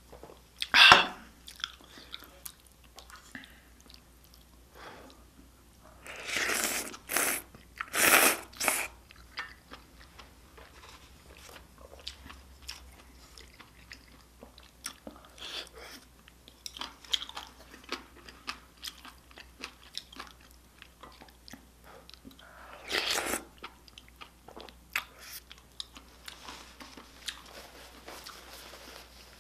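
Close-up eating sounds of a person eating spicy beef soup with rice: steady chewing and small wet mouth clicks, with a few louder slurps of soup about a second, six to eight seconds, and twenty-three seconds in.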